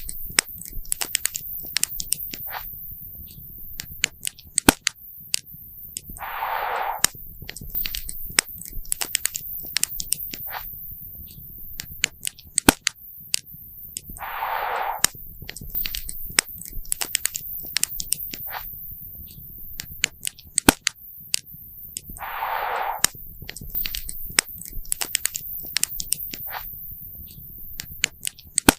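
Wood campfire crackling, with frequent sharp pops and snaps over a low rumble. A brief hiss recurs about every eight seconds, near one, seven, fifteen and twenty-three seconds in.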